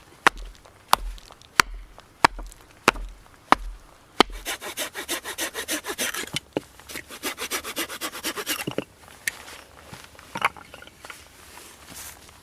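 Seven sharp knocks on wood, each with a dull thud, about 0.6 s apart. Then two runs of fast back-and-forth strokes of a hand saw cutting wood, each about two seconds long, followed by a few scattered knocks.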